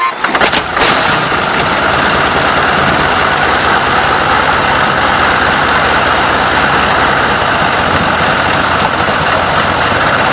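A large engine starting with a few sharp bangs in the first second, then running steadily and loudly.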